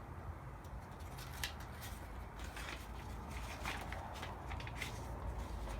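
Quiet room with a steady low hum and faint, scattered clicks and rustles of handling.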